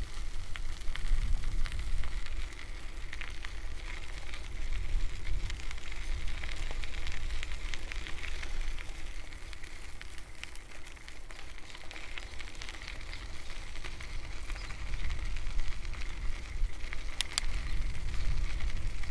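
Riding a bicycle: wind rumbling on the microphone, with a steady stream of small clicks and crackles from the tyres rolling over the path. There is a sharper pair of clicks near the end.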